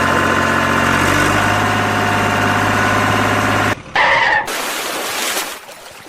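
Vehicle engine running steadily, starting and stopping abruptly, followed about four seconds in by a short, higher-pitched sound.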